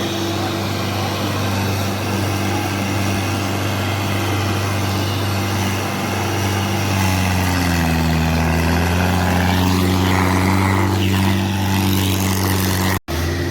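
Tractor diesel engine running steadily under load, its pitch sagging about two-thirds of the way through and then picking back up. The sound drops out for an instant near the end.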